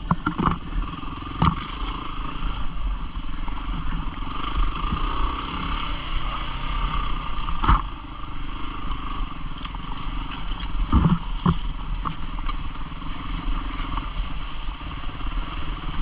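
Single-cylinder 250 cc four-stroke dual-sport motorcycle engine running steadily while riding a rough trail, with several sharp knocks and clatter of the bike hitting rocks and bumps, the loudest about halfway through and again near 11 seconds.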